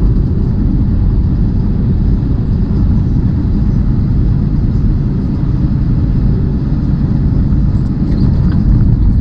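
Steady low rumble of a heavily loaded semi truck running at highway speed, engine and road noise together.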